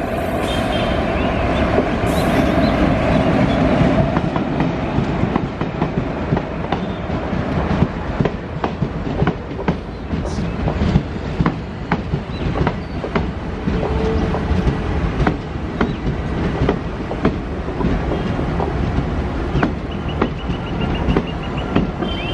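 Passenger train behind a WAP-4 electric locomotive rolling past. The locomotive's steady hum is heard in the first few seconds, then the coaches' wheels clatter over rail joints and points in irregular clicks. A faint high wheel squeal comes near the end.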